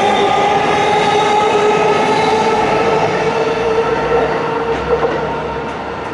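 JR Yamanote Line electric commuter train running away along the elevated tracks: a whine of several steady tones over track rumble, with a few short clacks and the sound easing off near the end.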